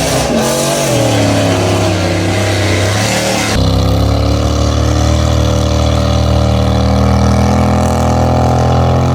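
Mega truck's large engine running under load with a wavering pitch; about three and a half seconds in the sound changes abruptly to a louder, steady engine note.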